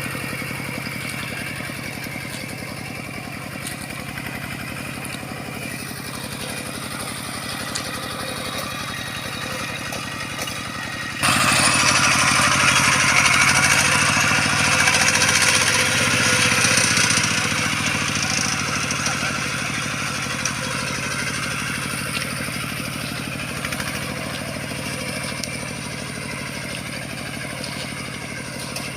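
Bulldozer's diesel engine running steadily with an even, fast firing pulse. About eleven seconds in, a sudden louder hissing rush comes in on top for several seconds, then eases off.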